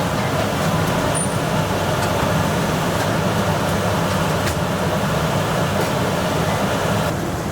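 Steady roar of a commercial kitchen, typical of gas cooking burners and an extractor hood running, with a few faint clicks over it.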